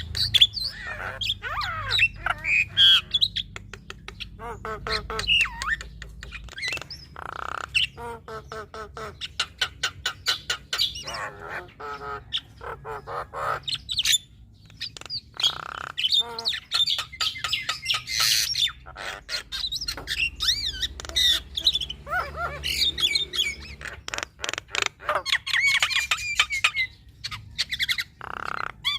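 Female Javan myna singing a long, varied song: harsh squawks, fast clicking rattles and whistled gliding notes, broken by a few short held notes.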